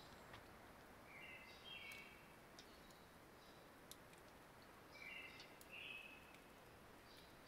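A songbird singing faintly, two short chirpy phrases about four seconds apart, with fainter high chirps between, over a steady low hiss.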